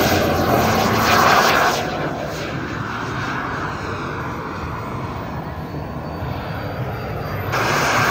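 Aircraft engine noise as a plane flies past: loudest in the first couple of seconds, then easing to a steady drone with a brief swell again near the end.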